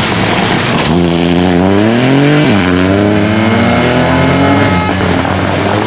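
Rally car engine accelerating hard: the revs climb, fall sharply at a gearshift about two and a half seconds in, then climb again in the next gear.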